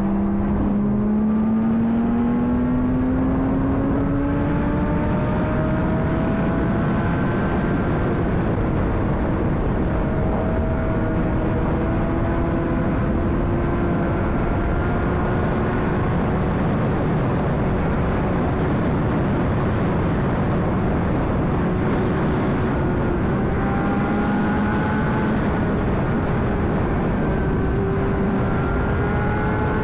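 Honda CBR600RR inline-four engine pulling through the gears at road speed, its pitch climbing over the first few seconds and then holding steady, under heavy wind rush on the helmet microphone.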